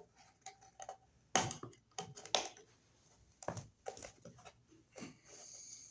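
Irregular clicks and knocks of hands handling and fitting a surface-mount electrical outlet box and its wiring, with a few sharper knocks in the middle and a brief rustle near the end.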